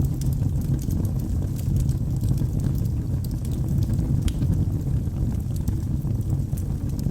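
Wood fire burning in a fireplace: a steady low rush from the flames with small crackles and pops from the burning logs scattered throughout.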